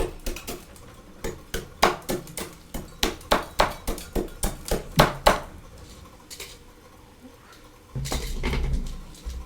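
Freezer frost being chewed: a quick run of sharp, crackly crunches, several a second, that thin out after about five seconds. Near the end comes a low muffled rumble lasting about a second.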